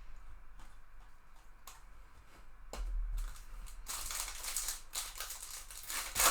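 Trading card pack wrappers crinkling and tearing as packs are opened, with small clicks of cards being handled. The crinkling grows louder in the second half, ending in a sharp crackle.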